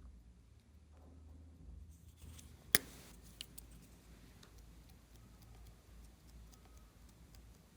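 Quiet handling of glossy slime: faint sticky ticks, with one sharp click nearly three seconds in and two smaller clicks just after.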